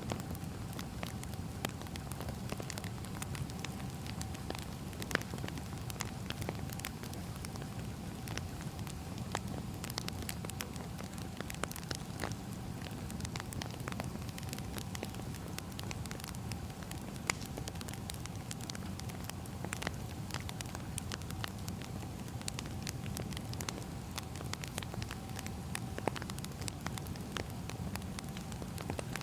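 Wood fire burning, with frequent irregular crackles and sharp pops of firewood over a steady low rumble.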